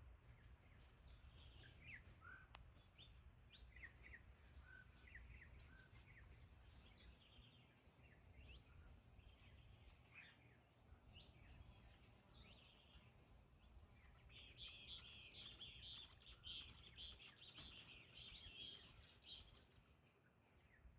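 Faint chirping of small birds: many short scattered calls, thickening into a denser run of chattering about fourteen seconds in, with one brief click about fifteen seconds in.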